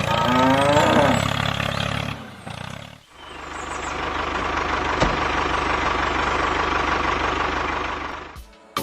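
A machine's motor running, rising in pitch in the first second, dropping away about two and a half seconds in, then starting again and running steadily until it cuts off near the end.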